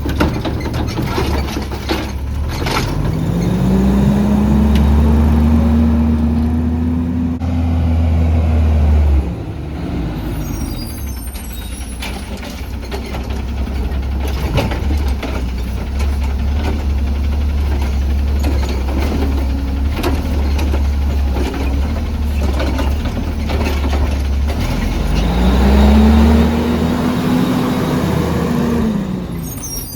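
CNG Autocar ACX garbage truck engine revving up and settling back down twice, about two seconds in and again near the end, over a steady low running hum, with scattered clanks. The loudness drops off suddenly about nine seconds in.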